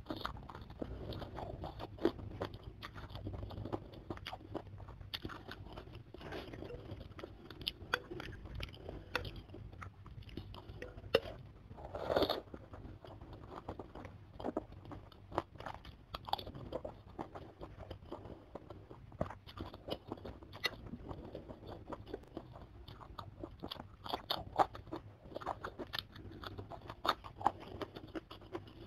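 Close-miked eating: wet chewing and biting with many sharp crunches, from mouthfuls of soto ayam with glass noodles and whole raw green chilies, and a longer, louder burst about twelve seconds in.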